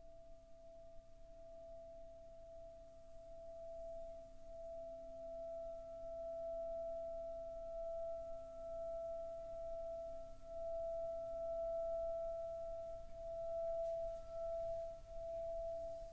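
Singing Rin bowl sounding one long, sustained tone with fainter overtones, swelling louder and wavering in slow pulses.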